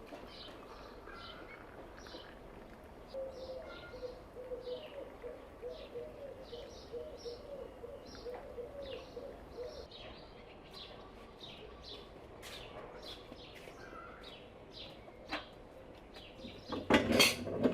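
Small birds chirping in short, high notes throughout, with a run of low, rapid pulsing calls in the middle and a brief loud noise near the end.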